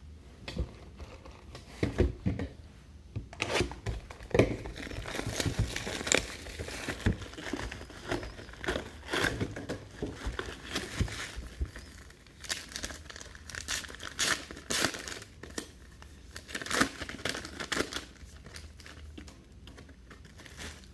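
Plastic wrapping crinkling and tearing as a sealed trading-card box and its packs are opened by hand: a stream of irregular crackles and clicks, sparse at first and near-continuous from about three seconds in.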